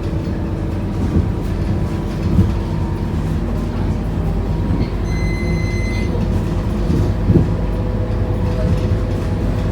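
Scania K230UB bus's diesel engine running, heard from inside the cabin, with a few knocks and rattles from the bus over the road. About five seconds in, an electronic beep sounds for about a second.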